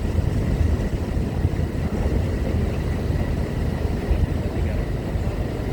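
Steady low rumble of heavy diesel engines at a ferry loading ramp, trucks and the ship running, with no clear rise or fall.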